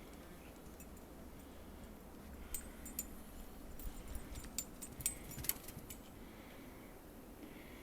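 Blizzard wind rumbling steadily on the microphone, with a flurry of sharp light ticks and clinks in the middle.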